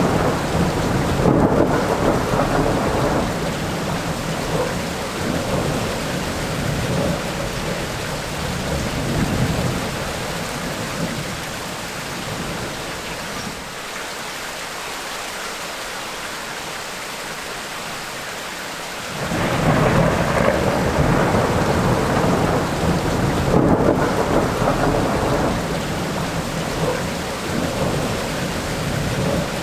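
Heavy rain falling steadily with rolling thunder. The low thunder rumble fades away over the middle, then comes back suddenly about two-thirds of the way through.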